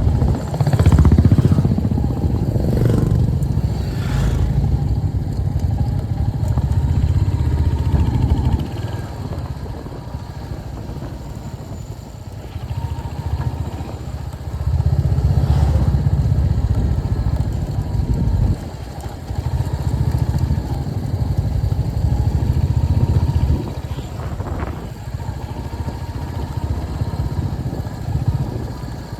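Royal Enfield Hunter 350's single-cylinder engine running as the bike is ridden, in louder stretches with quieter spells between them.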